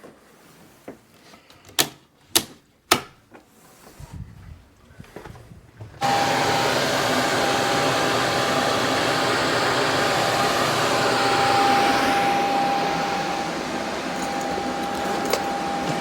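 Three sharp clicks, then about six seconds in a freshly cleaned and rewired electric furnace blower starts suddenly and runs steadily: a loud rush of air with a steady whine on top. It is the test run after reinstalling the blower and heating strips, and the blower is working.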